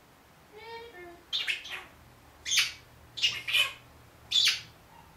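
Senegal parrot giving a run of four or five harsh, loud squawks in quick succession, after a short high-pitched vocal phrase.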